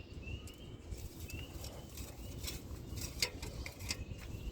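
A bird calling in a series of short rising chirps, fading out after the first couple of seconds, with a few faint clicks and knocks in the second half.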